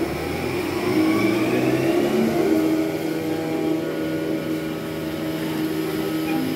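Dairy milking plant machinery running steadily, a mechanical hum with a whine rising about a second in, just after the plant has been started.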